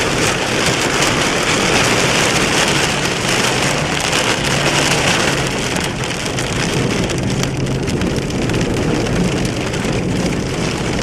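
Heavy thunderstorm rain pouring down hard in a dense, steady hiss that eases slightly about six seconds in, with a low steady hum underneath.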